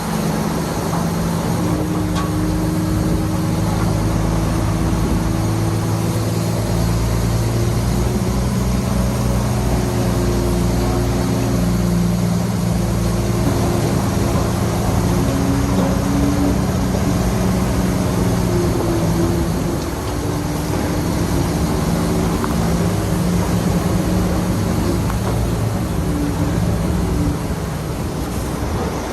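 Shantui crawler bulldozer's diesel engine running steadily under load, with small shifts in pitch as it works, over a broad clattering mechanical noise.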